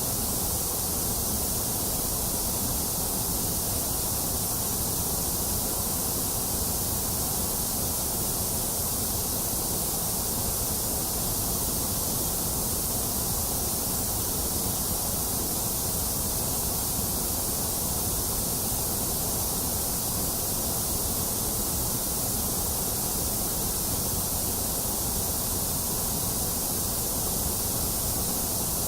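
Steady electronic white noise for infant sleep: an even, unchanging hiss, strongest in the high treble.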